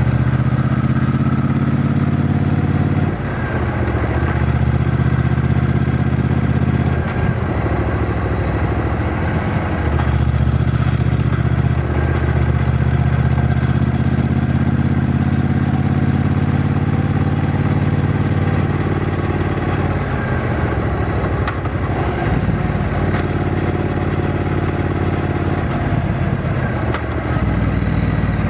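Triumph Bonneville T120's 1200 cc parallel-twin engine running, its note stepping up and down several times, with a short drop in level about three seconds in.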